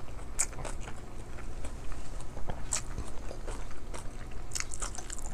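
Close-miked chewing and wet mouth sounds of a person eating a mouthful of rice, with short sharp clicks scattered through. Near the end, a spoon clinks and scrapes in a small glass bowl of dipping sauce.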